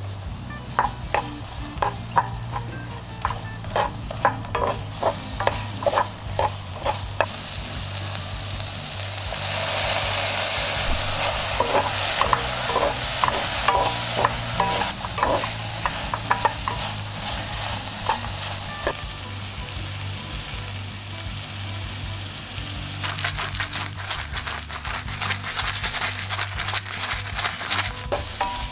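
Button mushrooms and minced garlic sizzling in butter and oil in a skillet, stirred with a wooden spatula that taps and scrapes against the pan in runs of clicks. The sizzle swells about a third of the way in.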